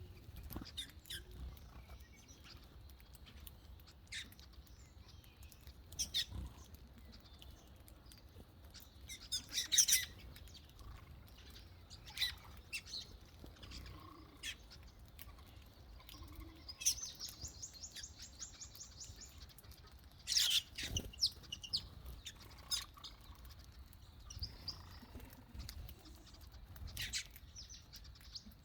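Small birds chirping, with short high calls scattered through and the loudest clusters of calls about ten and twenty seconds in. About seventeen seconds in, one bird gives a rapid high trill of quickly repeated notes lasting a couple of seconds.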